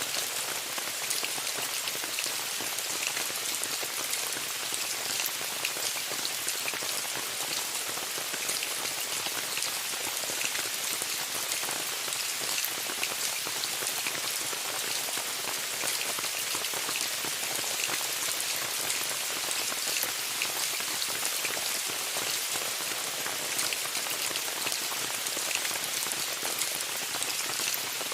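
Steady rain falling on a tent: an even hiss dotted with many small drop ticks.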